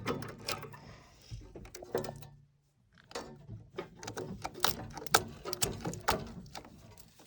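Irregular sharp clicks and light taps of hands working bare wires loose from a tractor battery's posts to cut power to a work light bar.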